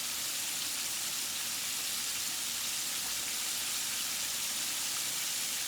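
Food frying in a pan on the stove, a steady sizzle.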